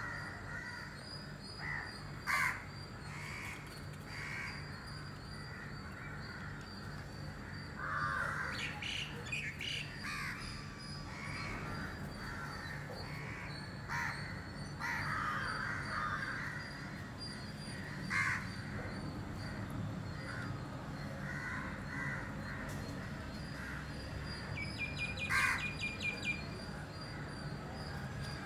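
Birds calling in short calls on and off, over a steady low hum.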